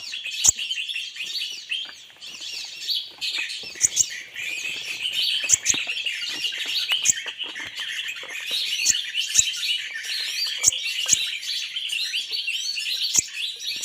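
Many small birds chirping and twittering at once in a dense, continuous chatter, with scattered sharp clicks.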